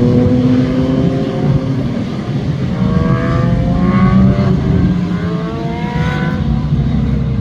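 Sport motorcycle engines revving up as they accelerate, the engine pitch rising twice, in the middle and near the end.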